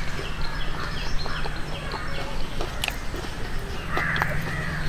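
A small bird chirping in a steady run of short repeated notes, about three a second, with a few soft clicks and a low steady hum underneath.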